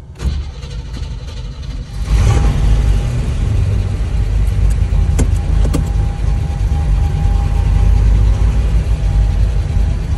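1963 Chevrolet Corvette's 327 V8 cranking on the starter for about two seconds, then catching and running steadily and loudly, heard from inside the cabin.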